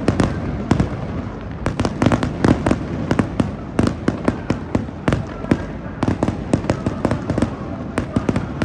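Aerial fireworks going off: a continuous rumble with rapid, irregular sharp cracks and pops, several a second.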